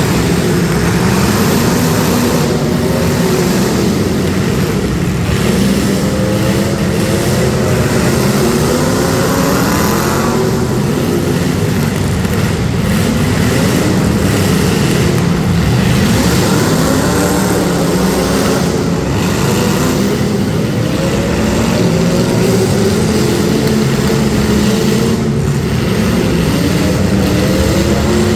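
Several demolition derby street stock car engines revving hard together, their pitches rising and falling over and over as the cars drive and ram one another.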